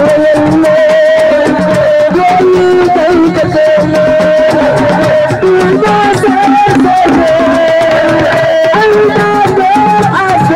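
Live assiko band music: dense hand-drumming and rattling percussion under a sustained, wavering melody line.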